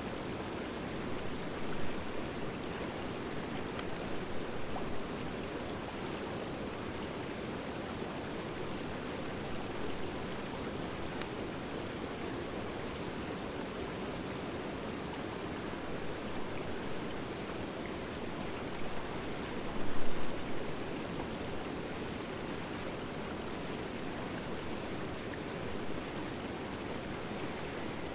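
Wood fire of driftwood and dry hardwood burning steadily with a low rushing sound, sprinkled with small crackles and pops. It swells louder briefly a few times, most of all about twenty seconds in.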